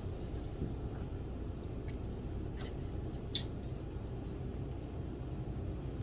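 Steady low background hum with a few light clicks and taps, one sharper click about three and a half seconds in.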